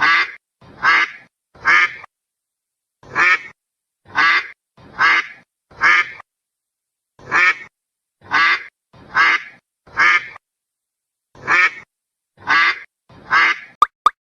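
Duck quacking, about fourteen quacks in groups of three or four separated by short pauses.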